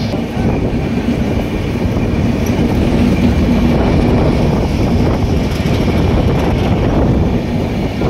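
Passenger train coach running along the track, heard from its open doorway: a loud, steady rumble of wheels on rails. A low hum underneath fades away after about six seconds.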